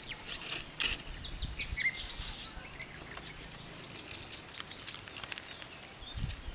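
A songbird singing: two quick runs of high, downward-slurred notes at about seven a second, the first lasting about two seconds and the second starting about three seconds in.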